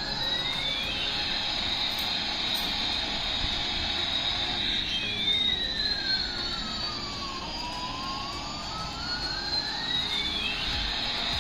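Jet engine sound effect: a steady rushing hiss with whistling tones that sweep slowly up and down, crossing each other every few seconds.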